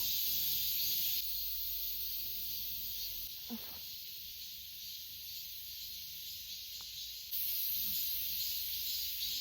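Steady, high-pitched hiss of summer insects chirring in the forest, which shifts abruptly in level a few times.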